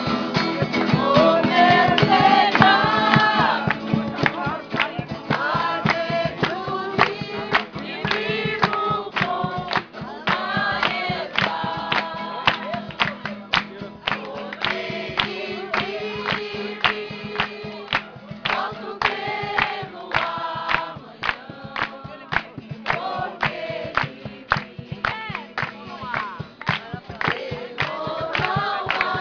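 A group of voices singing a gospel worship song together, with sharp, evenly spaced beats keeping time throughout.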